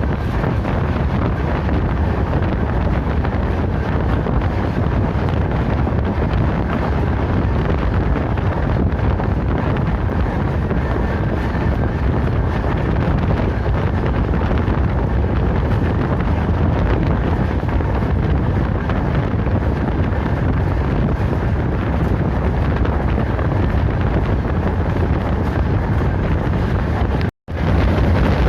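Steady wind buffeting the microphone, a dense low rumble that drops out briefly about a second before the end.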